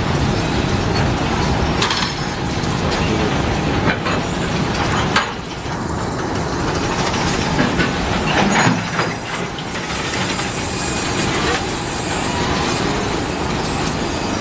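Loaded coal wagons of a long freight train rolling past close by: a steady rumble of wheels on rail, broken by irregular clacks and knocks.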